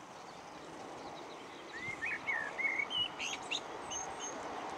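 Small songbirds chirping and singing, with a cluster of short rising and falling whistled notes in the middle, over a steady outdoor background hiss.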